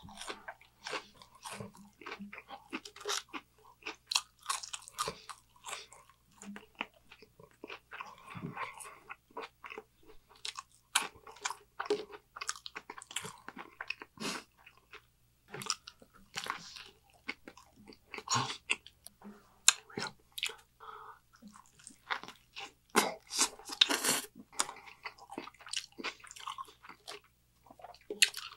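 Close-miked chewing of a Burger King Whopper and fast-food sides: a steady stream of irregular wet smacks and clicks from the mouth.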